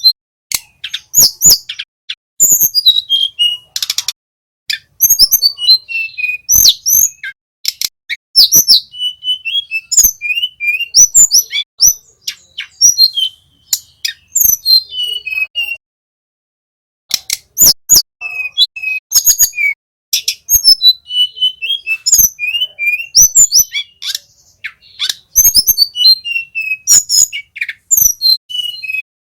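A male tledekan gunung singing in quick bursts of high chirps, sharp ticks and short down-slurred whistles, with a silent gap of about a second just past the middle.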